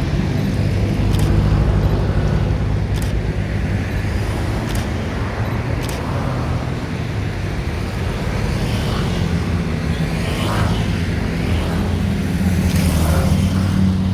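A steady low engine drone, with four sharp clicks in the first six seconds.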